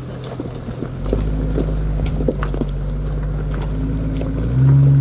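Mitsubishi L300 4x4 van's engine running steadily at low speed, with scattered clicks and knocks from the tyres and body over rough rocky ground. The engine gets louder about a second in and again sharply near the end.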